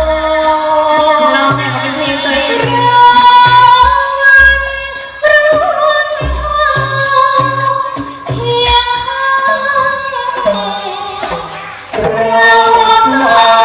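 Likay singing: a vocal line with vibrato over band accompaniment with a regular low bass beat.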